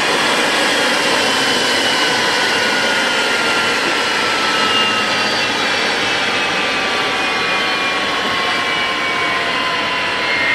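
F-16 Fighting Falcon's jet engine spooling down after shutdown: a loud steady rush with whining tones that slowly fall in pitch as the turbine winds down.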